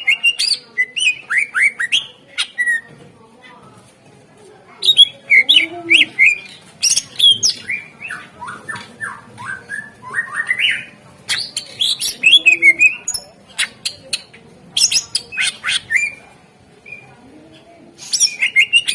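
Greater green leafbird (cucak ijo) singing in loud phrases of rapid chirps, slurred whistles and sharp ticking notes, each a few seconds long with short pauses between. A faint low call repeats every few seconds beneath it.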